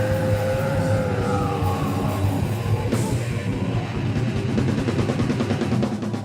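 Heavy metal band playing live: distorted electric guitar, bass and drum kit, with a held guitar note that bends slowly down early on. The band stops abruptly at the end.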